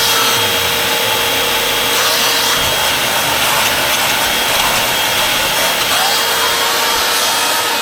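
Hoover UH70605 upright vacuum cleaner running steadily, a dense rush of suction airflow with a steady motor whine on top.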